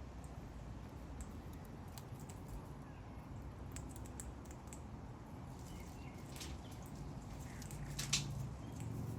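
King parrots cracking and crunching seed in their beaks: irregular sharp clicks, the loudest about eight seconds in, with a few faint high squeaks.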